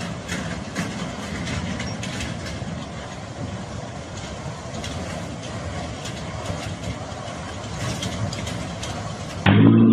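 Steady rumble of vehicle engine and road noise with faint scattered ticks. Near the end it cuts abruptly to a much louder engine running with a steady pitched note.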